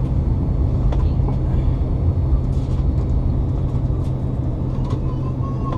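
Steady low rumble of a Boeing 787-9 Dreamliner's engines and airflow, heard from inside the passenger cabin.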